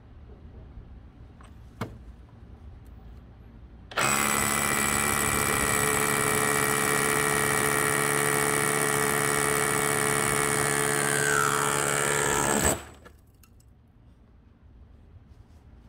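Bosch 18 V SDS-plus cordless rotary hammer drilling into a concrete slab, starting about four seconds in and running steadily for roughly nine seconds, until the slab splits in two. It then stops suddenly.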